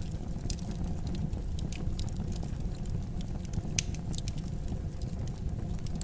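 Wood fire burning in a fireplace: a steady low rumble of flames with irregular sharp crackles and pops, the loudest pop nearly four seconds in.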